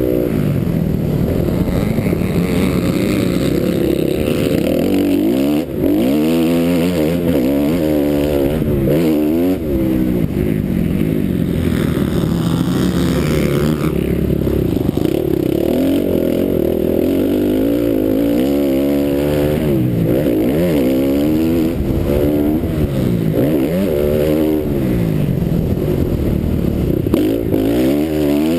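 A 450-class motocross bike's engine at race pace, heard from the bike itself: the note climbs under hard throttle and drops off again and again as the rider accelerates, rolls off and shifts through the track's jumps and turns.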